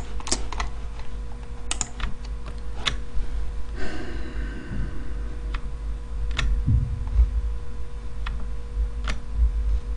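Scattered single clicks at a computer keyboard, one every second or so, over a steady low hum.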